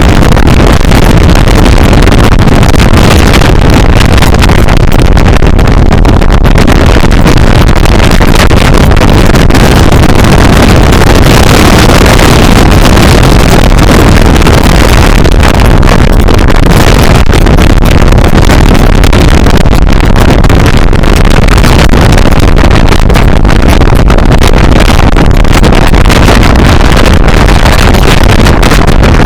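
Loud wind noise buffeting the bare microphone of a Xiaomi Yi action camera running without its case, recorded while riding. A constant rumbling roar that sits near clipping.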